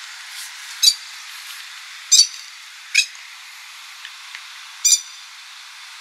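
Four short, sharp bird calls, spaced unevenly about a second or two apart, over a steady hiss.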